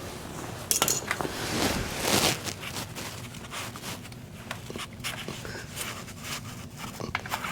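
Handling noises of metal parts being worked loose by hand: clinks, clicks and scrapes, with a sharp clatter about a second in and a louder scrape about two seconds in.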